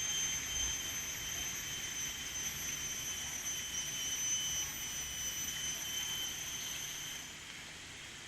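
A steady high-pitched whine with fainter, higher tones above it, over light background noise; it stops about seven seconds in.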